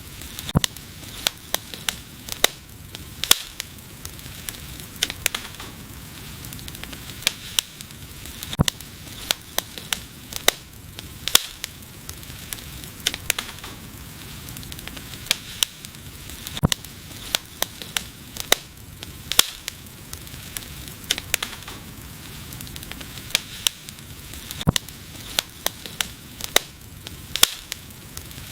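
Wood fire burning, with a steady hiss and frequent sharp, irregular crackles and pops.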